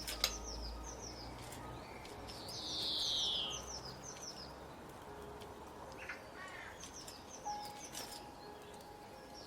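Several wild birds singing, with repeated short high chirps over a steady outdoor hiss. A louder call slides down in pitch about three seconds in, and a run of quick falling notes comes around the middle.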